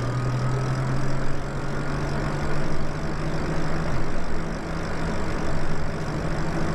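Lyric Graffiti electric bike riding along on throttle: a steady motor hum with a faint high whine over a rushing ride noise.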